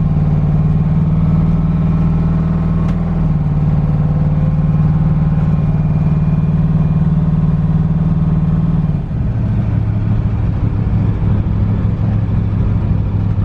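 Twin-turbo LS V8 running without mufflers, cruising at low revs with a steady drone. The pitch steps down slightly about three seconds in and drops more clearly about nine seconds in as the revs fall.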